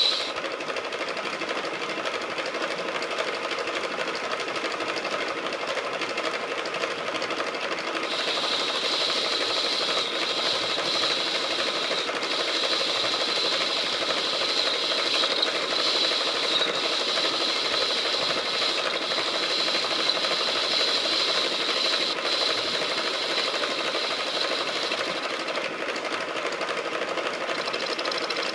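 KART E1N metal lathe running steadily while machining, with a high, thin whine that comes in about eight seconds in and holds.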